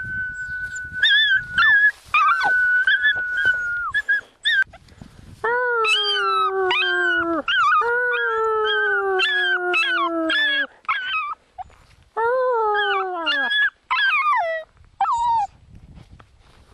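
A person whistles a long, steady note while a small dog yips and squeals along with it. Then the dog howls: two long howls that slowly drop in pitch, a shorter one, and a few brief falling whines near the end.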